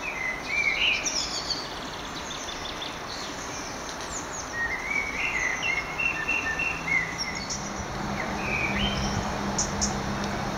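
Songbirds chirping and singing in short twittering phrases over steady outdoor background noise, with a low steady hum coming in about eight seconds in.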